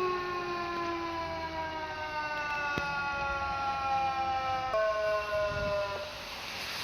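Fire engine siren winding slowly down in pitch, dropping suddenly about five seconds in as the truck passes, then cutting off, leaving the rush of the passing truck.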